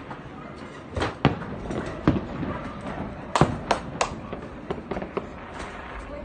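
Fireworks bursting: a dozen or so sharp bangs at uneven spacing, some in quick pairs and triplets, the loudest cluster about three and a half seconds in.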